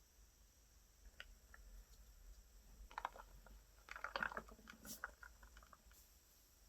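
Slime being pressed and worked by hand, giving faint, scattered sticky clicks and small pops that bunch into a crackling cluster about four seconds in.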